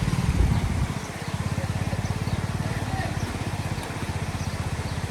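A small engine running at low speed: a steady, rapid putter, a little louder in the first second.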